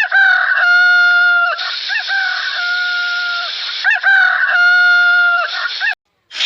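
Rooster crowing, several crows in a row, each a few short notes running into a long held note.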